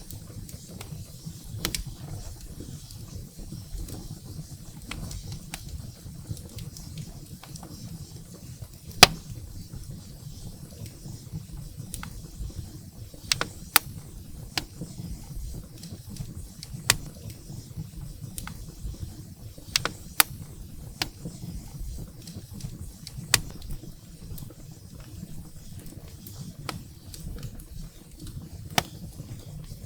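Wood fire burning in a fireplace: a steady low rumble of the flames with scattered sharp crackles and pops from the burning firewood, the loudest pop about nine seconds in.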